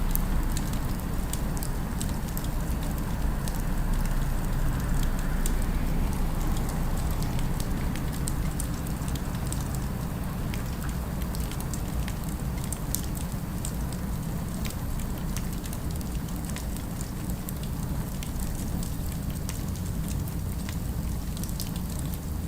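Fireplace fire crackling, with irregular sharp pops and snaps over a steady low rumble of city ambience.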